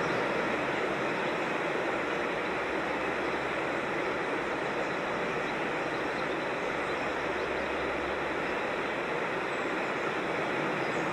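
Steady rush of water cascading down a rocky creek.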